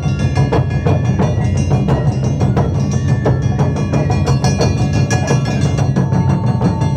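Live Japanese taiko drum ensemble playing a dense, fast rhythm: many quick strikes over a continuous deep drum rumble.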